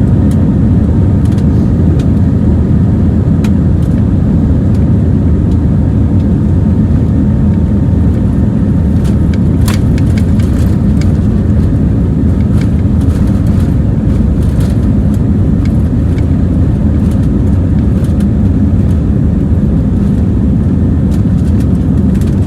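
Cabin noise of an Airbus A320neo under high thrust from its CFM LEAP-1A engines: a loud, steady, deep rumble, with a few light clicks and rattles from the cabin fittings.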